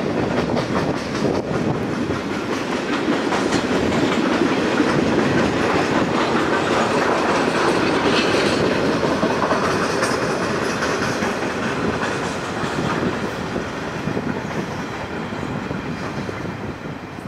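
Steel-laden freight wagons of a Pacific National train rolling across a rail bridge, their wheels clattering steadily over the rail joints. The sound eases off over the last few seconds as the end of the train passes.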